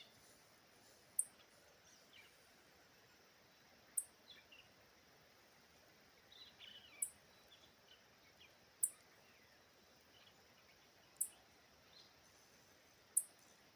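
Very high-pitched short chirps from a small animal, repeating roughly every two seconds, over faint scattered bird calls in the background.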